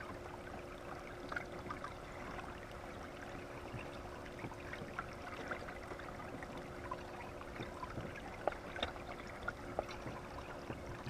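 Creek water trickling and lapping steadily, with scattered small drips and splashes.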